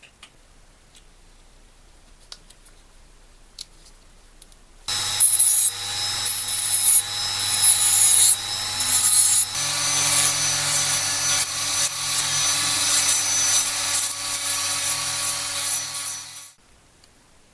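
A small power tool running with an abrasive working a metal part, a steady motor hum under a rough scraping that swells and dips. It starts about five seconds in and stops abruptly near the end.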